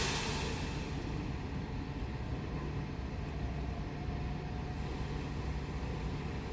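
Class 395 electric multiple unit standing at the platform before departure. A sharp air hiss at the very start fades within about a second, then the train's equipment keeps up a steady low hum with a faint whine.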